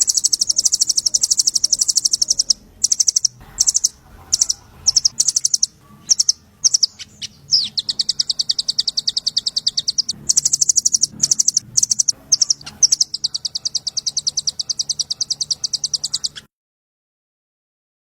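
A small songbird's rapid, high-pitched chattering trill of about ten notes a second, sung in long runs broken by short pauses. It stops about two seconds before the end.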